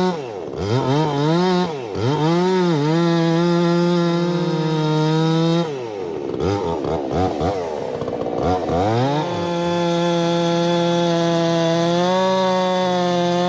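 Chainsaw blipped a few times, then held at full throttle through a cut. Around the middle the engine speed sags and wavers before it climbs back to a steady high pitch.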